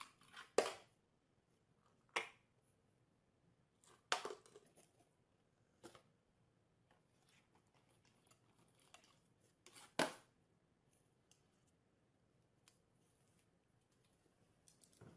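A few short, sharp taps spaced one to four seconds apart, the loudest about half a second in and about ten seconds in, with faint rustling between.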